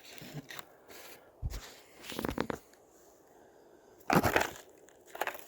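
Dry crunching and crackling in a few short bursts, the loudest about four seconds in.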